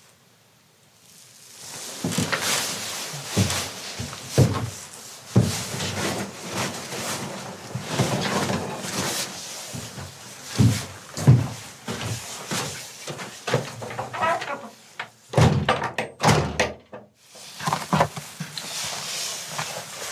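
A run of irregular thumps and knocks over a rough rustling noise, starting after a second or so of near quiet.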